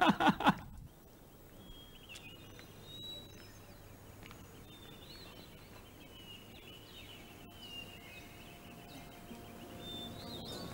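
Faint birds chirping over a quiet, steady background hum.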